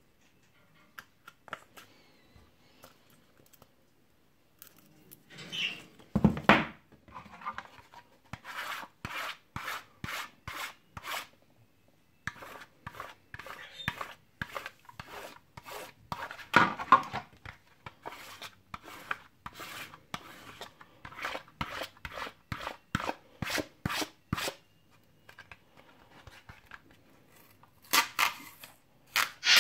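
Short rasping and tearing strokes on acrylic-spray-painted PLA 3D-printed wing pieces during a paint tear-off test. They come in runs of several a second, with louder strokes about six and seventeen seconds in and again near the end.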